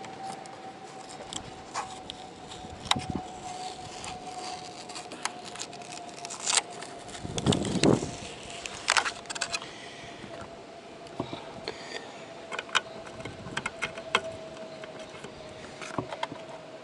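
Scattered clicks, taps and rattles of hands handling cables and small fittings, with a louder low knock about halfway through, under a faint steady tone.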